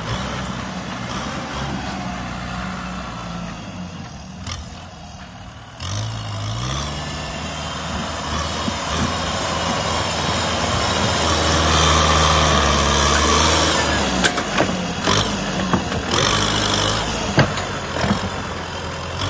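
Kubota tractor's diesel engine running steadily, its pitch rising about six seconds in as it is revved up, louder for a while in the middle, with a few sharp knocks near the end.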